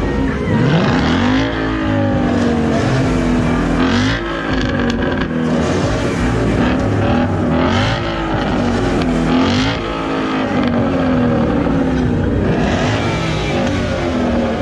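Performance car engines revving hard as cars pull away, the pitch climbing and dropping again and again.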